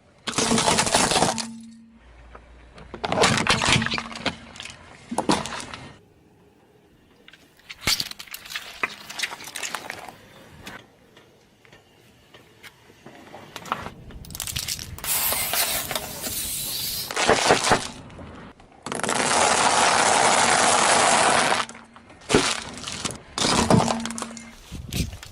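A series of separate crunches, cracks and breaking sounds as objects are crushed under car tyres, with quieter gaps between them. Later there is a steady hiss lasting a couple of seconds.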